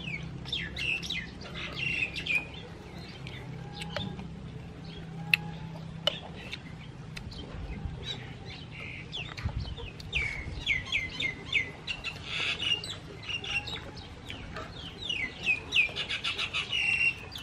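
Birds chirping: runs of quick, falling chirps that come in bunches near the start, around the middle and near the end. A low steady hum sits under the first six seconds or so.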